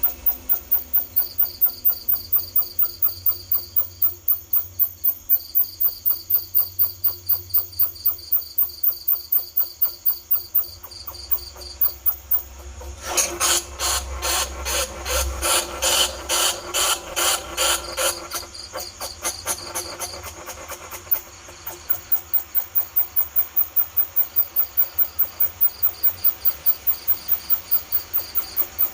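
Recorded bandicoot-rat squeaking played as a lure call for trapping rats: a rapid, even train of short high squeaks, about four a second. About thirteen seconds in, a louder, harsher run of squeaks lasts some five seconds, then the even train resumes.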